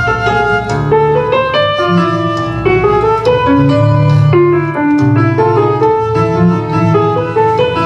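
Keyboard instrument playing a continuous piece of baroque music: a busy melody of quickly changing notes over a steady, moving bass line.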